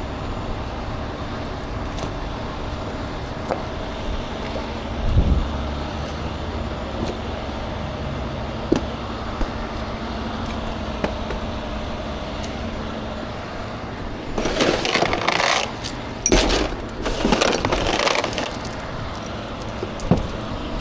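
A vehicle engine idling steadily, with scattered metallic clicks, a dull thump about five seconds in, and several seconds of rough clattering and scraping about three-quarters of the way through.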